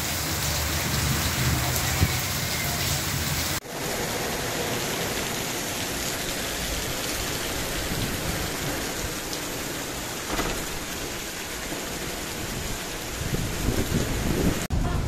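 Heavy rain pouring down in a steady hiss, cutting out for an instant about three and a half seconds in. Low gusty rumbling rises under the rain near the end.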